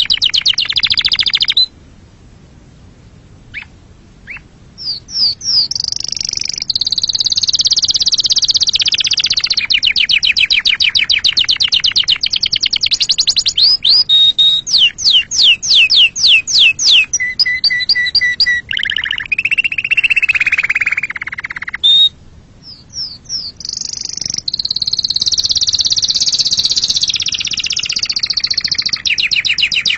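Domestic canary singing: long phrases of very fast trills and rapidly repeated sweeping notes, broken by two short pauses, about two seconds in and about twenty-two seconds in.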